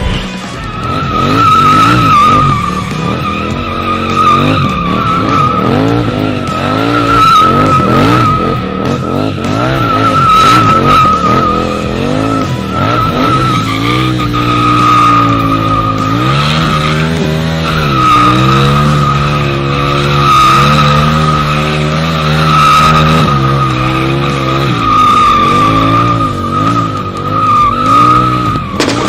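KTM motorcycle being drifted. A high, steady tyre squeal runs throughout, over the engine revving up and down again and again.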